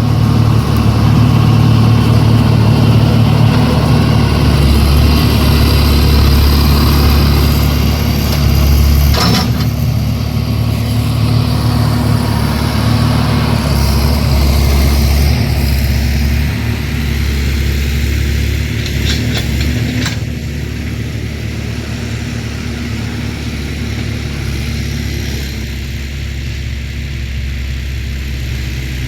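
Tractor engine running steadily, louder for the first half and easing off a little after about sixteen seconds, with a few brief knocks.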